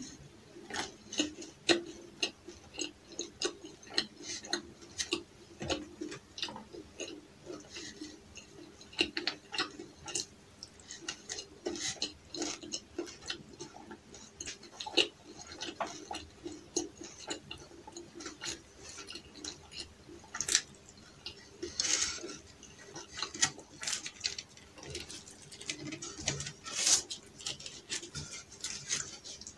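Close-miked eating sounds: paratha and chicken curry being chewed, giving a steady run of irregular wet mouth clicks and smacks, several a second. A few louder crackly sounds come in the second half, as the flaky paratha is torn by hand.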